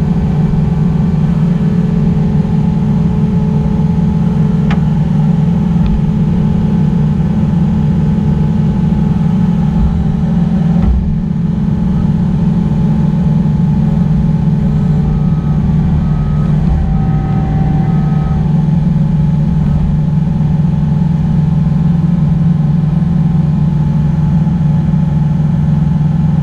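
Excavator's diesel engine running steadily under work, a loud, even drone.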